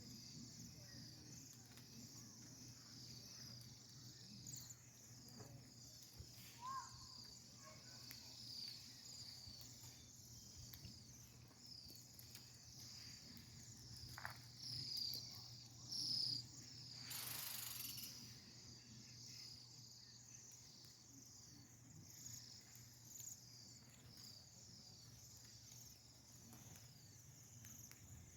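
Many small birds in a tree chirping together, a faint, continuous stream of short high chirps, with a brief rush of noise about seventeen seconds in.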